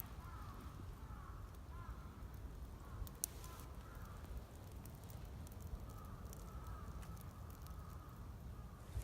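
Wood campfire crackling faintly, with a few sharp pops, one louder about three seconds in. A steady low rumble and short repeated chirping calls sit underneath.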